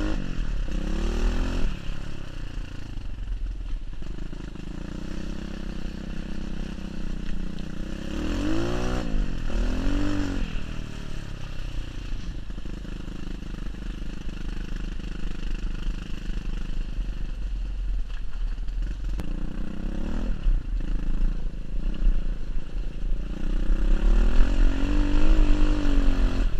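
Pit bike's small single-cylinder engine being ridden hard, revving up and dropping back again and again, with the pitch climbing and falling most clearly near the start, about eight to ten seconds in, and near the end. A steady low rumble of wind on the microphone runs underneath.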